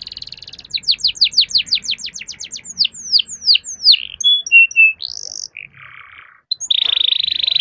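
Domestic canary singing: a fast run of down-slurred whistles that slows and widens after about three seconds, a few short clear notes, a brief harsh rasp, then a fast rolling trill near the end.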